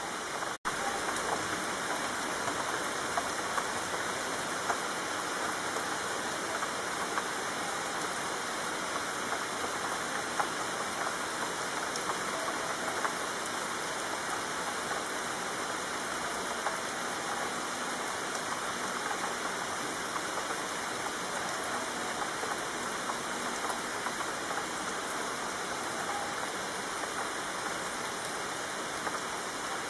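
Steady rain falling, an even rushing hiss with scattered drop ticks. It cuts out for an instant about half a second in.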